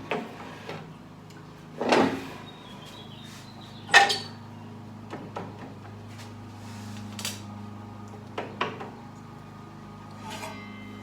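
A few sharp metal clanks and knocks, the loudest about two and four seconds in, as the table saw fence and workpiece are handled and set between cuts, over a steady low hum.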